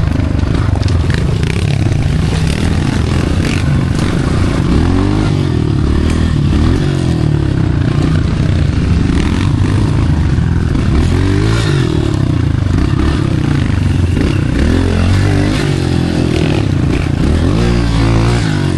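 A Honda CRF125 pit bike's small single-cylinder four-stroke engine being ridden off-road, its revs rising and falling again and again as the throttle is worked.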